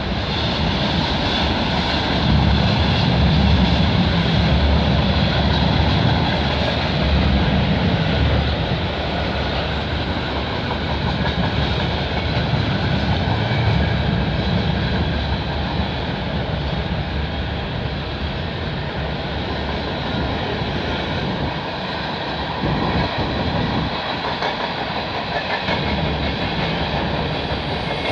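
CN freight train passing close by, its wheels running steadily over the rails. The deep rumble is strongest in the first several seconds and eases after that.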